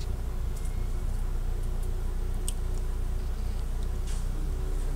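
Steady low rumble of an Alstom Coradia Lint diesel railcar, heard from inside the passenger cabin as the train slows to a stop at a station platform, with a few faint ticks.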